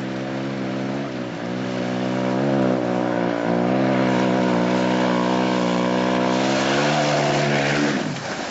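Dirt bike engine at high revs, its pitch climbing in steps, then held high and steady. Near the end the engine note drops away sharply into a burst of rushing, splashing noise.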